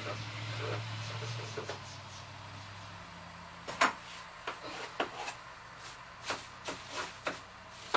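A low steady hum for the first few seconds, then a run of about ten sharp clicks and light knocks starting around the middle, the first the loudest.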